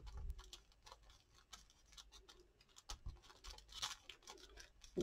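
Faint handling of paper and craft materials on a desk: scattered small clicks and taps with a soft rustle about four seconds in.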